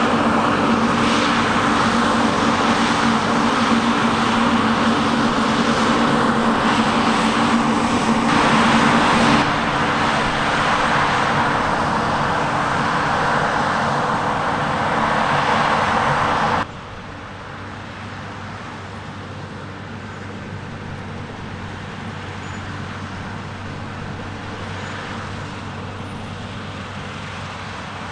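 Heavy diesel harvest machinery running steadily with a low engine hum. The sound changes abruptly about nine seconds in, then drops suddenly to a much quieter, steady machine hum about seventeen seconds in.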